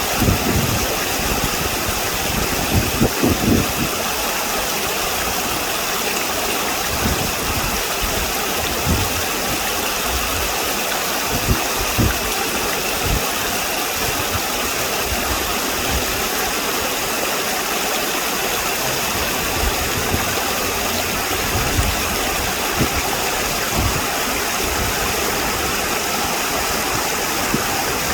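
Steady outdoor rushing noise with occasional low thumps.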